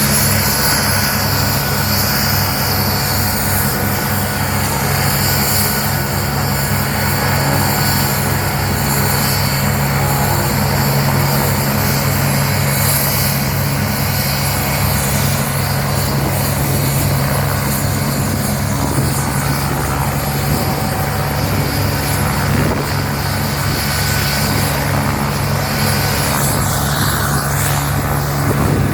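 Agusta A109 Power helicopter running, with a steady, even rotor beat and a high, steady whine from its turbines.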